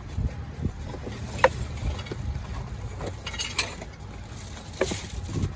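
Trash being handled in a dumpster: a few sharp knocks and clatters of items being moved, the loudest about a second and a half in, over low rumbling wind and handling noise on the microphone.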